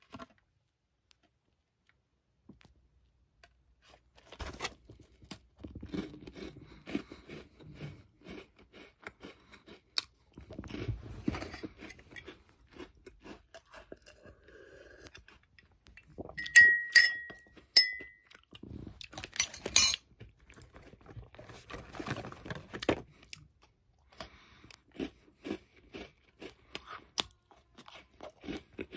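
Close-up crunching and chewing of crisp chocolate chip cookies, starting about four seconds in. Near the middle there is a pause to drink milk from a glass, followed by a brief ringing clink of the glass before the chewing resumes.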